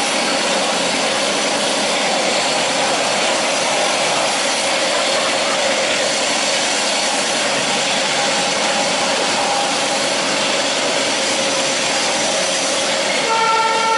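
Passenger train running at slow speed, a steady noise of wheels on the rails and the carriage, heard from on board. Near the end the train's horn starts to sound.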